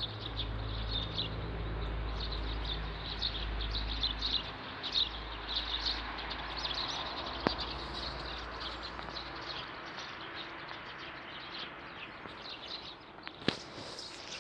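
Small songbirds chirping in quick, repeated short notes, with a low steady rumble underneath that stops about two-thirds of the way through.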